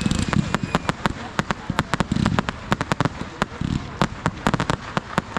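Fireworks going off in a rapid, irregular string of sharp bangs and cracks, several a second, with voices underneath.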